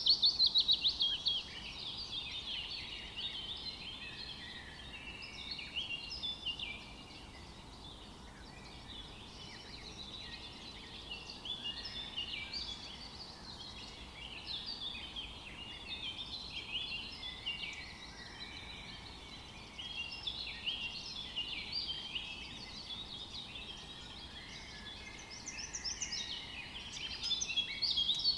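Several songbirds singing and chirping together in overlapping calls, with a loud rapid falling trill at the start and another burst of louder song near the end, over a faint background hiss.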